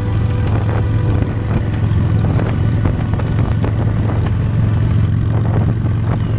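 Honda Steed V-twin motorcycle engine running steadily under way, with frequent short clicks and knocks over it.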